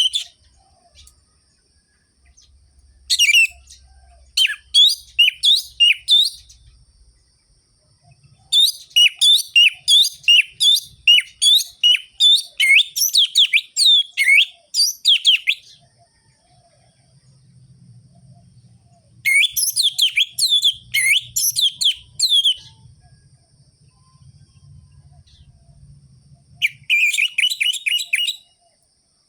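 Orange-headed thrush (anis merah) singing vigorously in four bouts of rapid, sharp notes that sweep in pitch, separated by pauses of a few seconds; the longest bout runs about seven seconds.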